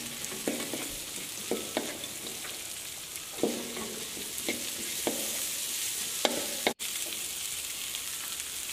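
Chillies, onion and aromatics sizzling in hot margarine in a wok, with irregular scrapes and knocks of the stirring utensil against the pan. The sound cuts out for an instant just before the seventh second.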